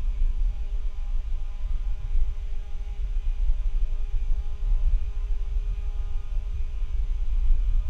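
Faulty microphone picking up a loud, unsteady low rumble with a steady electrical hum and faint hiss over it.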